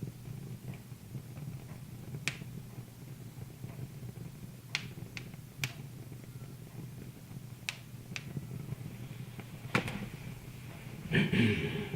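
Wood fire crackling: scattered sharp pops from the burning logs, one every second or so, over a steady low hum. A louder, rougher sound lasts about half a second near the end.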